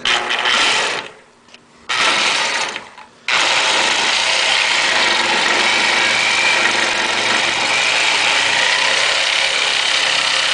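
Corded reciprocating saw (an old Sawzall) cutting metal: two short runs on the trigger, then steady cutting from about three seconds in.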